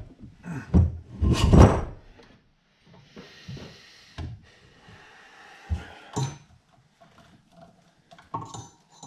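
Drill press parts being knocked and pushed together by hand during assembly: a burst of heavy thuds and knocks near the start, a stretch of scraping, then a few single knocks.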